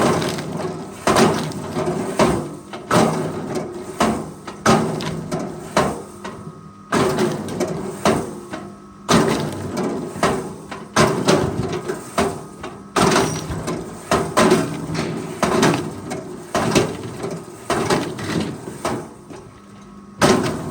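Repeated heavy knocks on wood, about one a second and fairly regular, each sudden with a short rattling tail, over a faint steady hum.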